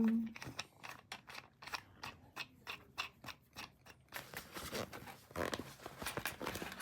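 Irregular small clicks and crunches, a few a second, giving way about four seconds in to a denser crackling rustle.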